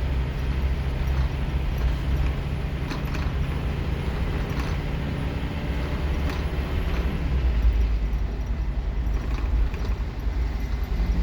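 Scania K230UB Omnilink bus's five-cylinder diesel engine heard from inside the bus, pulling hard under kickdown. A high whine runs over the engine and drops away about seven seconds in as the engine note changes, with rattles from the bus body.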